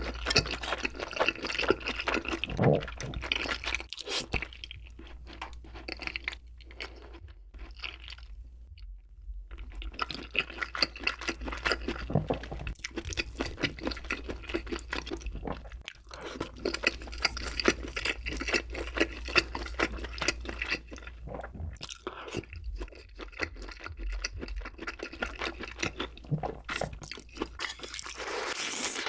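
Close-miked mouth sounds of eating braised chicken and wide glass noodles in a soy-based sauce: wet chewing, smacking and slurping. There is a quieter spell of sparser chewing about a third of the way in.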